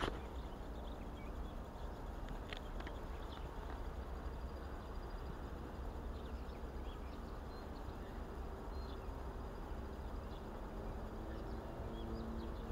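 Quiet riverside ambience: faint scattered bird chirps over a low steady rumble, with a faint insect buzz near the end.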